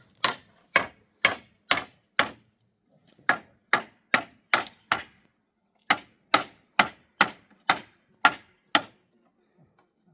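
Hammer striking wood: three runs of sharp blows, about two a second, with short pauses between the runs.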